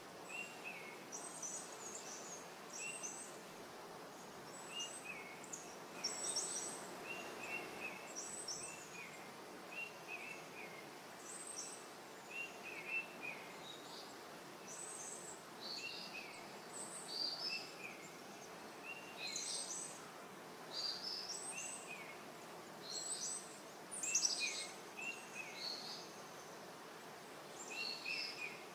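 Several birds chirping. A short, lower chirp repeats about once a second, and higher, quicker calls are scattered over it, against a steady background hiss.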